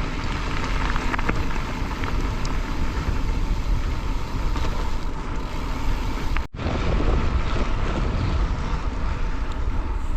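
Wind buffeting the camera microphone with low rumble from a bike rolling on gravel, a steady noisy rush with a brief break about six and a half seconds in.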